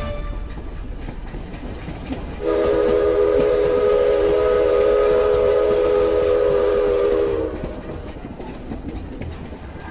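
Train sound effect: the rumble of a moving train, with a long train-horn chord of several tones blown together for about five seconds starting about two seconds in, its pitch sagging a little as it ends.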